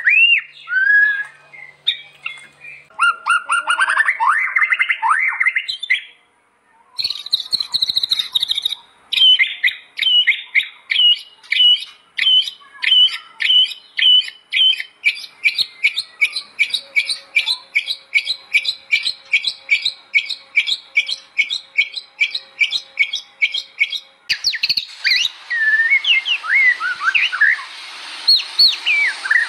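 White-rumped shama (murai batu) singing in a series of spliced recordings: varied whistles and chatter, then a long run of one short note repeated steadily, then loud whistles over a hissy background after a cut near the end.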